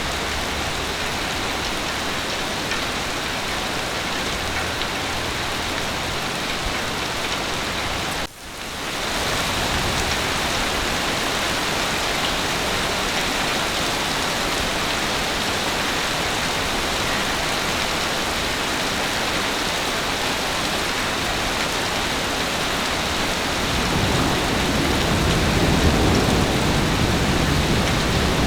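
Heavy rain falling steadily, with a brief dip and fade back in about eight seconds in. Near the end, a low rumble of thunder builds under the rain.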